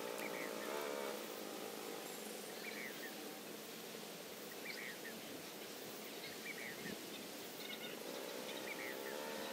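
Short bird chirps repeating about once a second over a steady outdoor background hiss, with a low droning hum near the start and again near the end.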